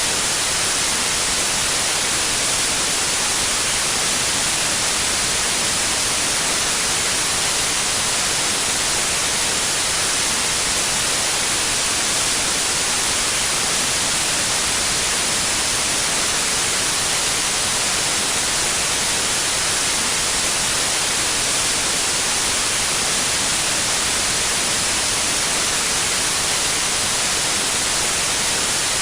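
Steady electronic white noise, an even hiss heaviest in the treble, unchanging throughout.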